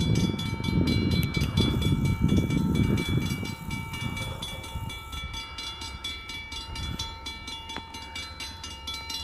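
Train rumbling past on the tracks, loudest for the first few seconds and then easing off, with a steady rapid ringing over it like a grade-crossing bell.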